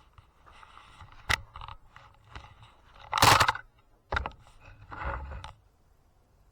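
Rustling and handling noises with a few sharp clicks, the loudest a brief scraping rush about three seconds in.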